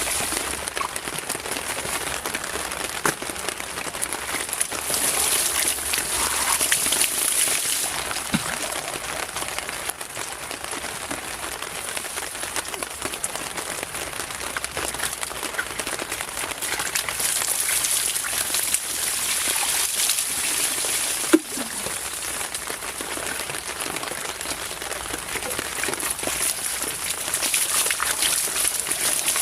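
Steady rain falling, with a hiss and many small scattered drop ticks; a high hiss swells and fades a few times. A single sharper tap sounds about 21 seconds in.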